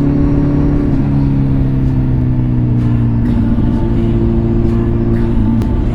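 Kawasaki ZX10R's inline-four engine through a full Two Brothers exhaust, running at low, fairly steady revs. Its pitch sags slowly over the first three seconds, then steps up a little twice.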